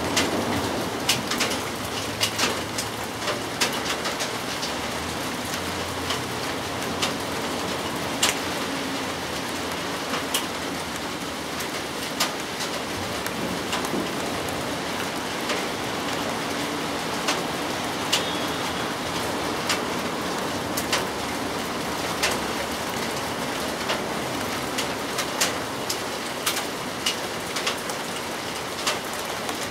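Steady rain falling, with sharp single drips landing irregularly about once or twice a second.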